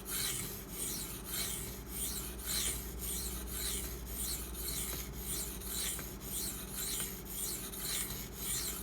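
Steel knife blade stroked back and forth on a 1000-grit sharpening stone, a quick run of rasping strokes about two to three a second. This is the refining stage after a coarse 240-grit stone, cleaning up a rough apex by bringing the edge just to the apex without forming a burr.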